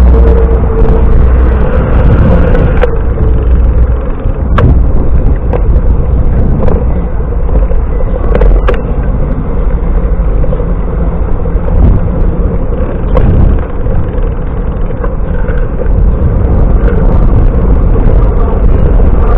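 Wind buffeting a camera microphone on a moving bicycle: a loud, steady, rumbling rush with road noise underneath and a few sharp clicks.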